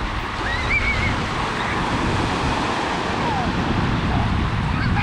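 Lake Superior waves washing onto the shore, a steady surf noise, with wind buffeting the microphone.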